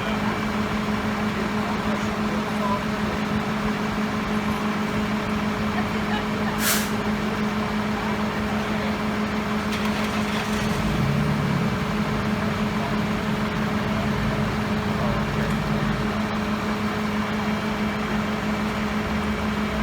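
A heavy vehicle's engine idling with a steady hum, and a brief sharp hiss of air about seven seconds in.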